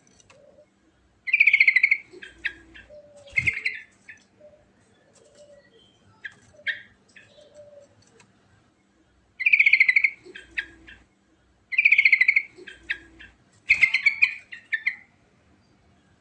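Yellow-vented bulbul (trucukan) singing: four loud bursts of fast, rattling trills, with short sharp chirps in between.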